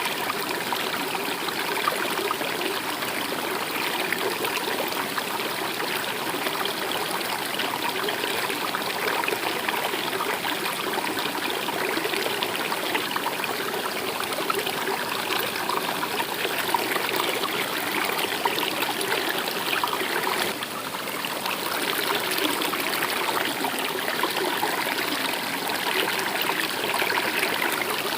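A stream of water running steadily over rocks, a continuous trickling rush.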